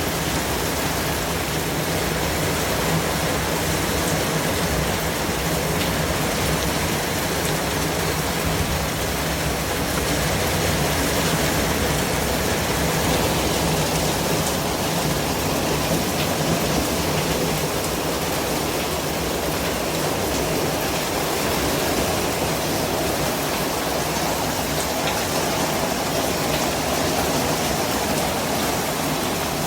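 Steady white noise: an even, unbroken hiss spread across all pitches, with no rhythm or events.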